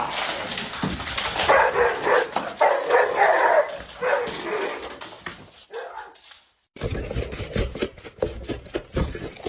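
A dog barking in a run of short, pitched barks and yowls for the first few seconds. After a brief silence, a run of short low knocks follows.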